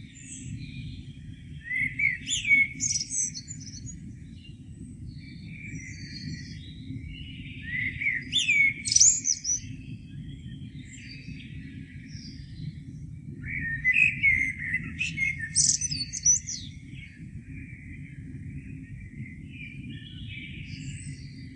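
Songbirds singing a morning chorus: a loud, sweeping song phrase comes about every six seconds, over continuous softer twittering. A steady low rumble runs underneath.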